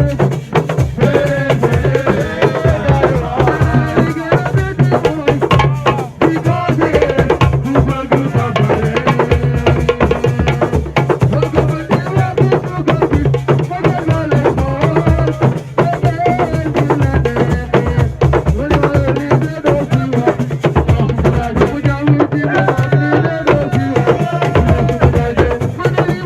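Senegalese assiko dance music: dense, fast drumming with a singing voice over it and a steady low bass note underneath.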